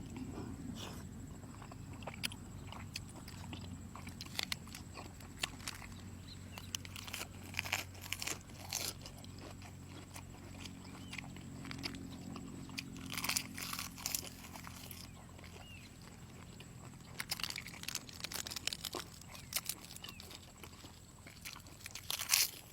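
Close-miked chewing and biting of soy-sauce pickled seafood: wet smacking with crisp clicks, coming in clusters.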